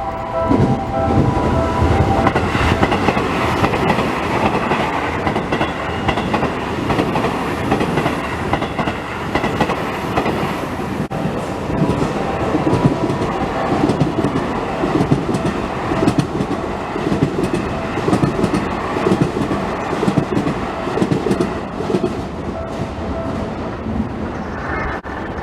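Seibu Railway electric commuter train passing over a level crossing, with loud, steady rumbling and a rhythmic clatter of wheels over the rail joints. The crossing's warning bell rings again near the end.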